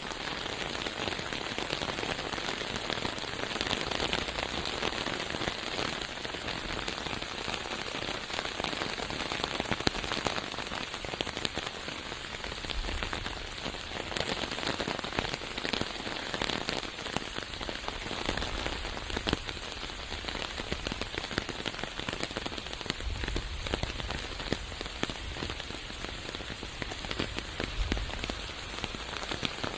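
Steady rain falling in a forest, with many individual drops ticking sharply close by and a few brief low rumbles.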